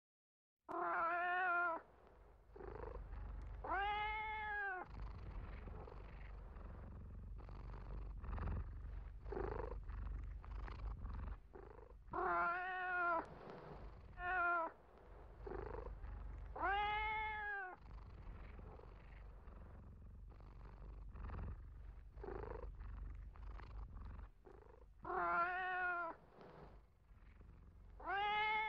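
Domestic cat purring with a low steady rumble, broken by about seven meows that each rise and fall in pitch. The purring fades out a few seconds before the last two meows.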